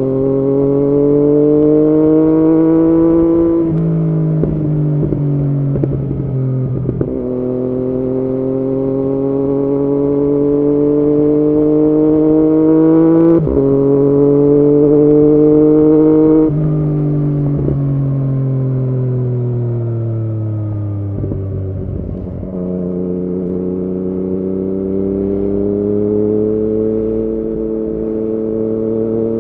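2016 Yamaha MT-09's three-cylinder engine through an Arrow aftermarket exhaust, under way: the engine note climbs steadily through the gears, dropping at upshifts about four and thirteen seconds in. Past the middle the note falls away as it slows, then it pulls steadily again near the end.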